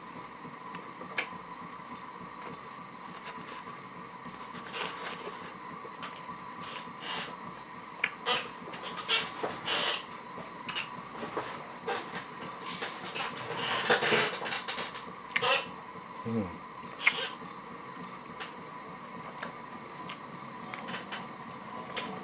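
Close-miked eating of a soft taco: irregular chewing clicks and smacks, with a longer stretch of noise about fourteen seconds in.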